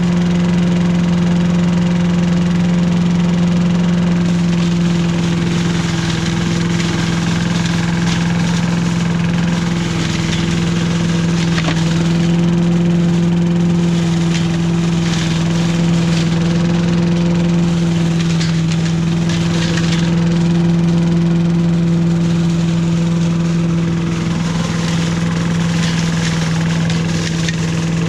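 Billy Goat Estate walk-behind leaf vacuum running steadily on its small gas engine while sucking up leaves through the ground intake, with brief rattles now and then as debris passes through.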